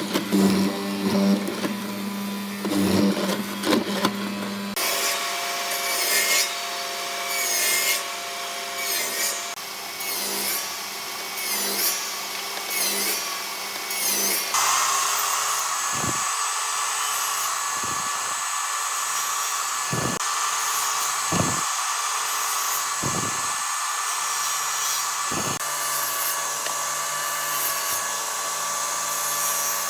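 Power tools working wood. A droning noisy stretch gives way to rough, regular strokes about every second, then from about halfway to a steady high whine with a few brief dips.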